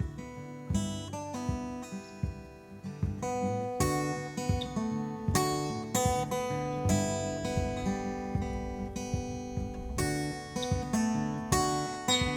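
Instrumental break of a song: acoustic guitar strummed and picked in chords, with no singing.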